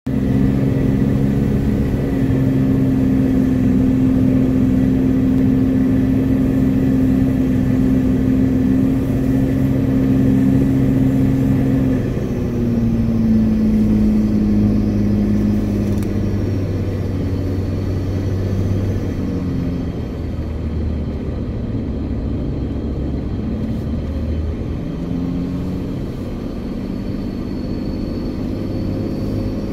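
Off-road 4x4's engine running steadily under way, heard from inside the cab. Its pitch drops about twelve seconds in and shifts up and down after that.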